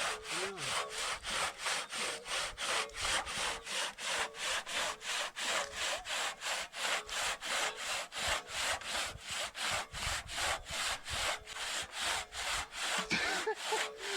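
Hand saw cutting through a log of old bog oak, in steady back-and-forth strokes of about three a second.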